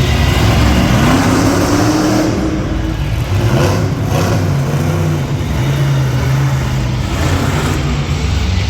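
Monster truck engine running loudly and revving, its pitch climbing about a second in.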